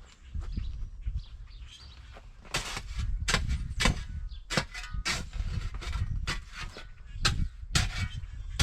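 Thick ice crust on deep snow cracking and crunching as it is broken, sharp cracks about twice a second from about two and a half seconds in.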